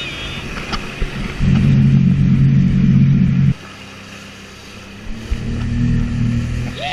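Sea-Doo jet ski engine running, then opening up loudly for about two seconds, dropping back abruptly, and picking up again about five seconds in.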